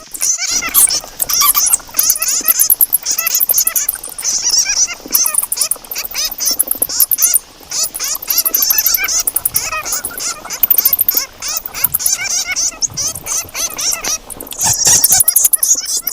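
Bats squeaking and chattering: many overlapping short, high chirps mixed with rapid clicking, carrying on without a break.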